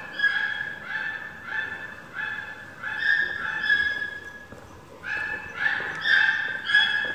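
A bird honking over and over in short, level-pitched notes, about two a second, with a brief pause about four and a half seconds in before the calls start again.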